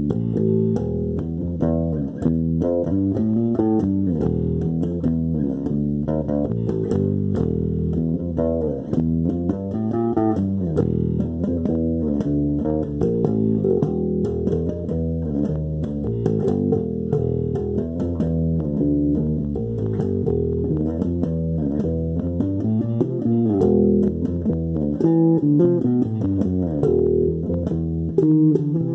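Plucked-string music led by bass guitar: a steady run of quick, mostly low notes.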